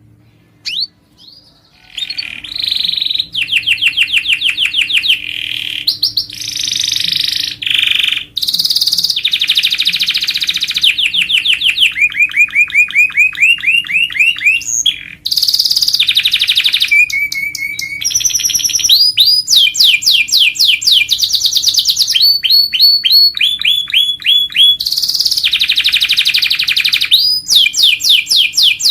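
Domestic canary singing a long song of rapid rolled trills. Each trill is a fast run of repeated notes, and a new trill takes over every second or two. The song starts about two seconds in, after a brief quiet.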